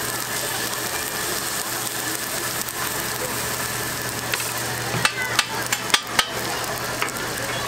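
Pancake batter frying on a hot oiled flat-top griddle, a steady sizzling hiss. A quick run of sharp clicks comes about five to six seconds in.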